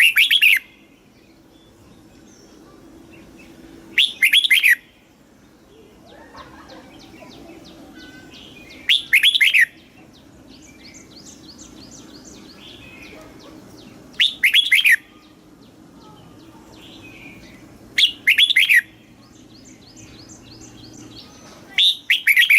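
Red-whiskered bulbul singing short, loud, warbling phrases, one roughly every four to five seconds. Fainter rapid chirping fills the gaps between phrases.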